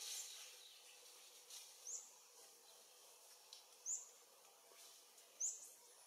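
A small bird giving three short, high chirps about every two seconds, over faint outdoor background hiss.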